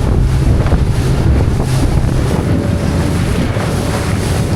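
Wind buffeting the microphone, a steady loud rumble, over the wash of the sea.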